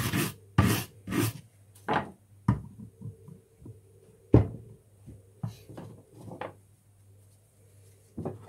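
Scattered knocks and clatters of tools and lead pieces being handled and set down on a workbench, about eight in all, the loudest about four seconds in.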